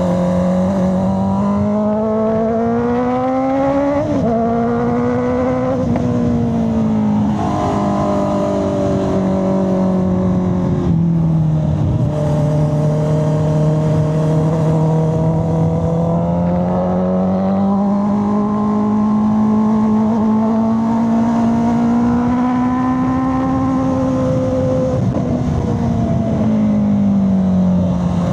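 Honda CB650R's inline-four engine and exhaust under way, rising in pitch under throttle for the first few seconds, then dropping sharply about four seconds in. Through the rest, the pitch falls and climbs again more slowly, holding steady for a while in the middle.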